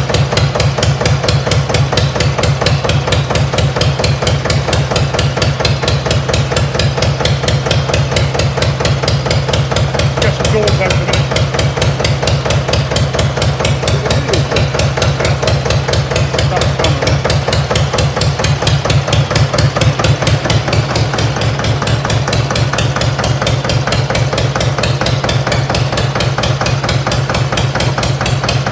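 Armstrong Siddeley diesel engine on a Massey baler running steadily, with a rapid, even knocking beat.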